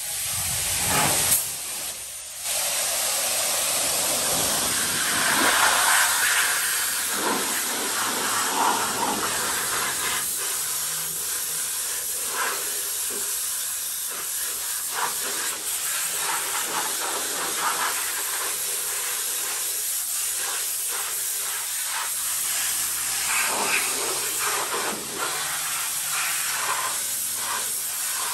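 Self-serve car wash pressure-washer wand spraying water, a steady loud hiss that settles in about two seconds in after a brief break.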